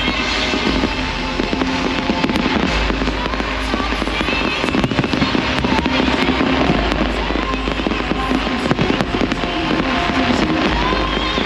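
Fireworks bursting and crackling, many sharp reports in quick succession, over loud music.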